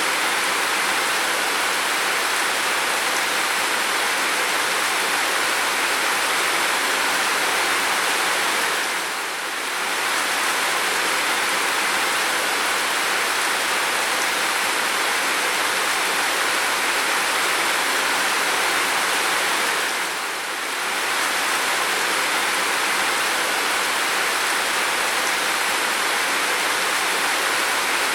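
Heavy, steady rain, an even rushing hiss with no separate drops standing out. It dips briefly in level twice, about nine and twenty seconds in.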